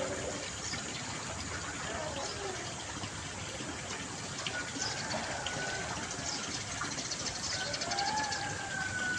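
Water flowing steadily, with a few faint gliding calls over it, around the middle and near the end.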